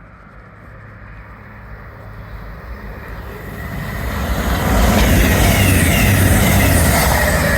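A train approaching and passing, its rumble and rail noise building steadily to a loud peak about five seconds in and holding there.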